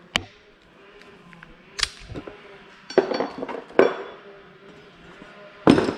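Metal hand tools clinking and knocking as wrenches and sockets are handled during work on an engine's bolts: about half a dozen separate clinks, the loudest near the end.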